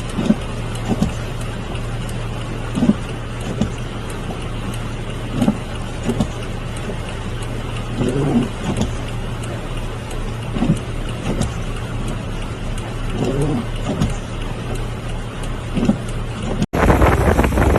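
A vehicle's steady engine hum under a constant hiss of rain and water, with scattered short dull knocks. Near the end it cuts abruptly to louder, rougher noise like wind on the microphone.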